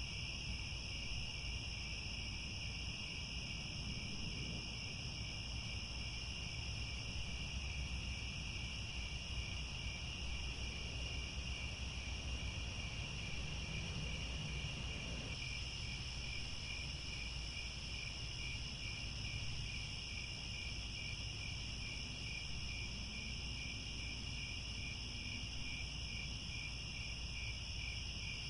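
Chorus of crickets chirring steadily at several pitches, one of them pulsing quickly in the second half, over a low, even rumble.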